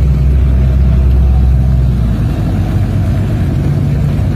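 Side-by-side UTV engine running with a steady low drone, its deepest note dropping away about two seconds in as the engine eases off.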